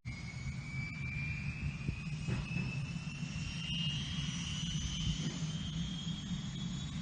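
Bell 210 (UH-1) helicopter running, a steady low rotor and engine rumble under a turbine whine that rises slowly and steadily in pitch.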